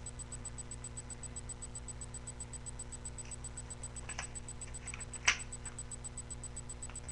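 Paper being handled: a few faint rustles and one sharp snap about five seconds in, over a steady low hum and a fast, even ticking.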